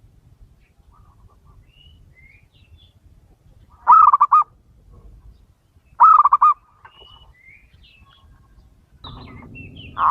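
Male zebra dove (perkutut) cooing: two short phrases of quick staccato coo notes, about four and six seconds in, with faint high chirps of small birds between them. Near the end a rougher noise rises as the next coo begins.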